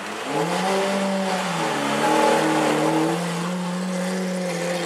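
Lamborghini Aventador LP700-4's V12 with a Capristo aftermarket exhaust, running above idle: the revs rise and the sound grows louder about half a second in, dip briefly around two seconds in, then hold steady.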